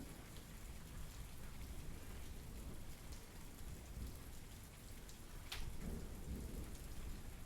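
Steady rain falling on a surface. A single sharp drip lands about five and a half seconds in, followed by a brief low rumble.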